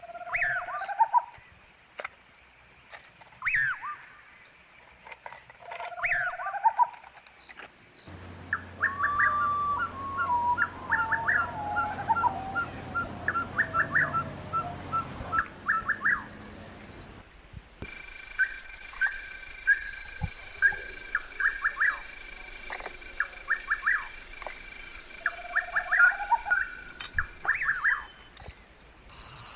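Wild birds calling: repeated gliding whistled calls, then a run of quick notes, with sudden changes in the background about a third and two thirds of the way through. A steady high whine sits behind the calls in the later part.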